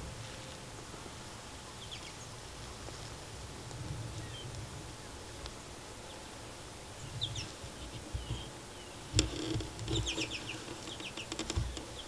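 Small wild birds calling in short chirps, a few scattered at first, then several in quick succession near the end, over a low outdoor rumble. One sharp click about three quarters of the way through is the loudest sound.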